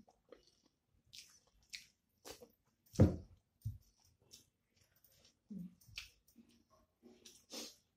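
A person chewing a mouthful of rice and curry eaten by hand, picked up close: short separate smacks and clicks of the mouth, with one much louder thump about three seconds in.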